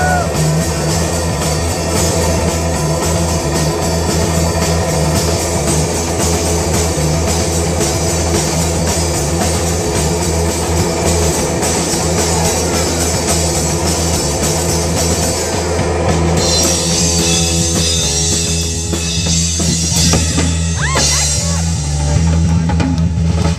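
Live rock band playing loudly, with a drum kit and electric guitar. About two-thirds of the way through the cymbal wash drops away and held chords ring out.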